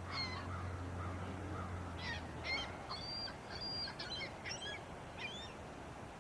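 A small bird chirping a rapid series of quick, sweeping high notes, over a steady low hum that fades about two seconds in.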